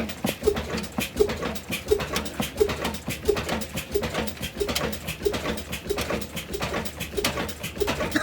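A 75-year-old engine running with a slow, regular, chuffing beat, a louder stroke about every three-quarters of a second with knocks between.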